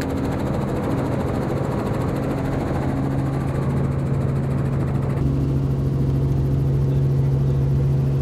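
Helicopter running steadily: a constant low drone with a held tone. The sound changes abruptly about five seconds in, the hiss above it dropping away.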